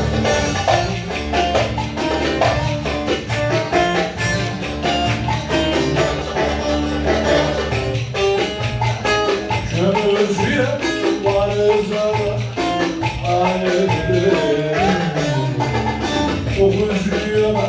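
Ankara-style Turkish folk dance music (oyun havası) in an instrumental passage: a bending melody line over fast, steady percussion with a jingling, tambourine-like beat.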